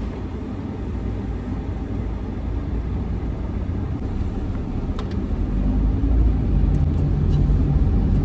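Car interior noise while driving: a steady low rumble of engine and road, growing louder about halfway through, with a brief click about five seconds in.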